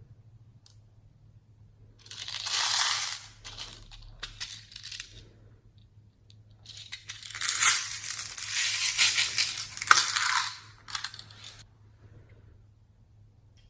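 Slime being squeezed and pressed by hand, giving crackly, crunching squelches in two bursts: a short one a couple of seconds in and a longer, louder one near the middle, with a few separate clicks between.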